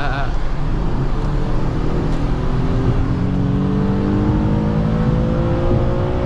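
Infiniti G37S's 3.7-litre VQ V6 under hard acceleration, heard from inside the cabin. Its pitch climbs steadily for about five seconds toward the top of the rev range, then drops right at the end as the transmission upshifts.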